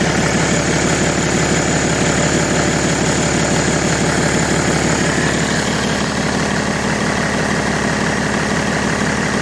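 Car engine idling steadily, with a thin high whine running over it.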